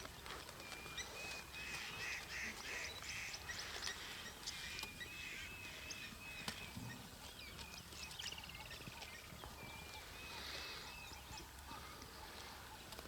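Wild birds calling: a string of short, high chirping notes repeated over and over, with a quick trill about eight seconds in, faint over background ambience.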